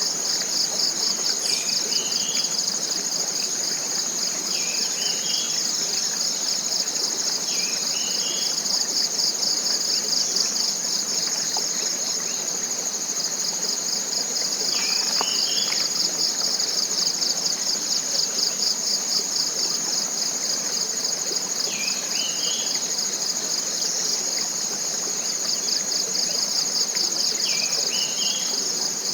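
Dense, steady chorus of forest insects: a shrill, pulsing high drone. A bird gives a short rising call six times over it, a few seconds apart.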